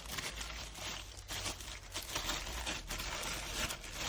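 Plastic packaging rustling and crinkling in irregular bursts as cordless vacuum parts are unwrapped and handled.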